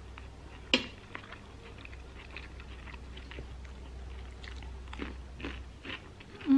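A person chewing a mouthful of food close to the microphone: a sharp click about a second in, then a run of small, irregular crunches.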